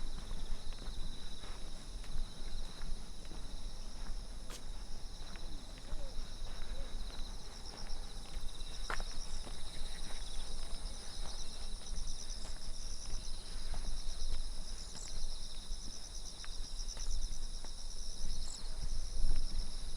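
Insects chirping steadily in several high-pitched pulsing bands, over the irregular footsteps of someone walking on a trail. A low rumble runs underneath.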